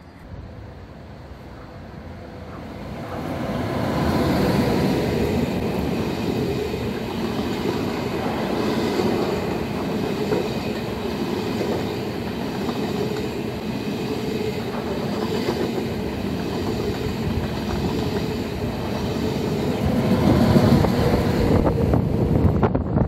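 ICE high-speed train running past on the track: a steady rumble of wheels on rails that builds over the first few seconds and is loudest near the end.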